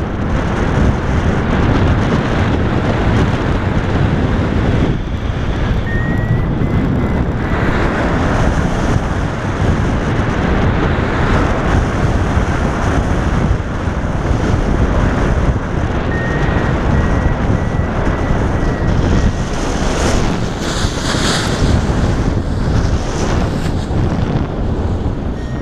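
Loud wind rushing over the microphone of a paraglider in flight, with a thin high tone coming in faintly twice.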